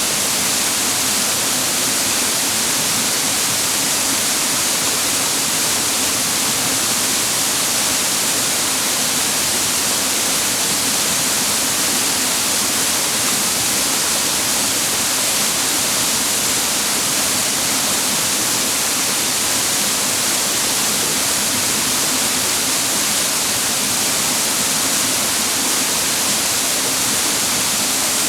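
Rushing water of a clear mountain stream, a loud, steady hiss with no let-up.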